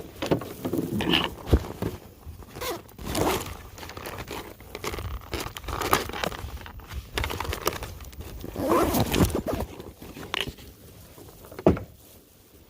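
Rustling, crinkling and scraping from gear being handled in a kayak while a fresh soft-plastic bait is got out to re-rig the line. Two sharp knocks stand out, one about a second and a half in and one near the end.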